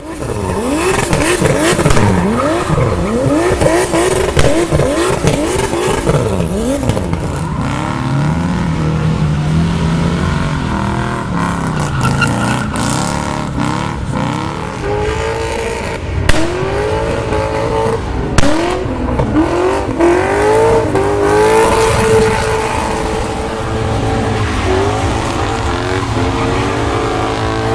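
Drift cars' engines revving hard while sliding, with tyre squeal. In the first few seconds the engine pitch swings rapidly up and down; later the revs are held steadier. Two sharp cracks come about 16 and 18 seconds in.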